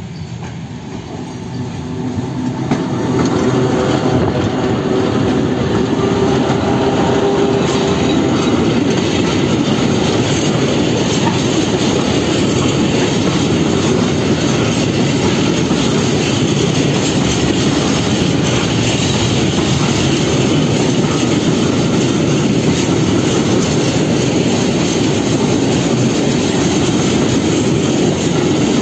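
ZSSK Cargo class 131 electric locomotive passing with a freight train, growing louder over the first three seconds with a steady whine as it goes by. Then a long string of loaded high-sided open wagons rolls past: a steady, loud rolling noise of steel wheels on rails.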